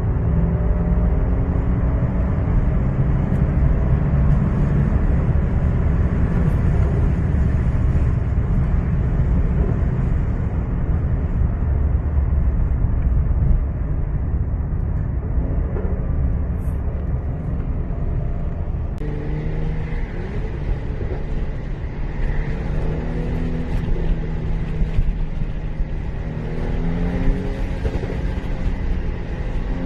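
Stage 1 tuned Mercedes C400 twin-turbo V6 pulling hard under acceleration, its pitch climbing and then dropping again and again as the gearbox shifts. A few sharp exhaust crackles come through, one near the middle and a couple more later on.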